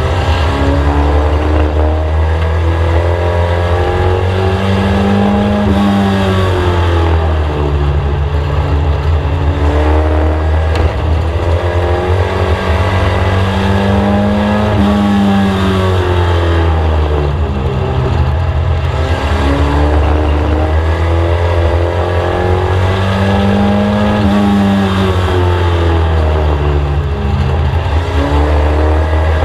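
Inside the cabin of a Mk1 VW Scirocco race car, its four-cylinder engine runs hard at speed on a short oval track. The engine revs climb along each straight and drop off into the turns, in a steady cycle about once every ten seconds.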